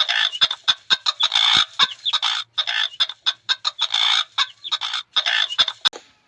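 Animal calls: a rapid, uneven run of short calls, several a second, with a few longer calls among them, stopping abruptly just before the end.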